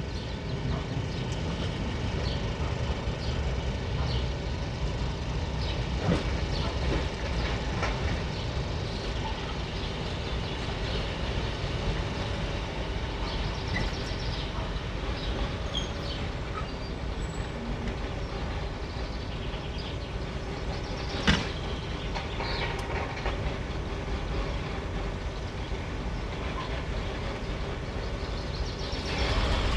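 A train running on the rails: a steady rumble with faint steady tones and scattered clicks, and one sharp knock about twenty-one seconds in.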